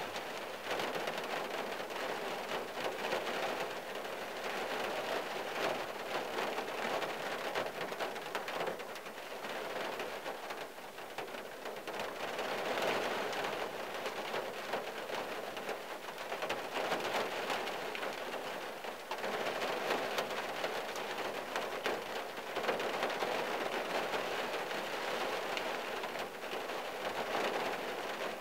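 Rain pattering on the windshield and body of a 1974 Valiant, heard from inside the car. The patter grows heavier and lighter by turns.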